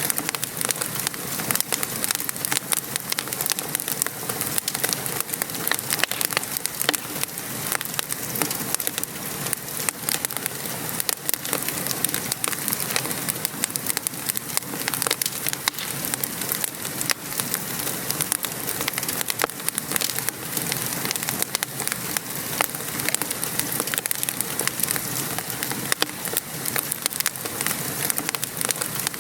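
Wood fire crackling and popping in a fireplace, many sharp snaps over a steady hiss of rain falling outside.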